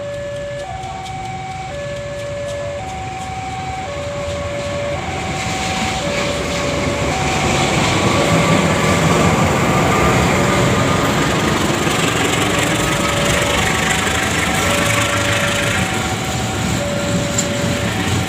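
A long freight train passing: wheel-on-rail rumble builds from about five seconds in and stays loud. Throughout, a level-crossing warning alarm sounds a steady alternating two-tone signal, about one tone per second.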